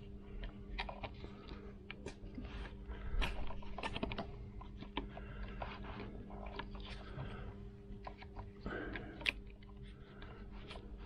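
Hands working wiring and plastic cable sheathing: irregular small clicks, crackles and rustles, over a steady low hum.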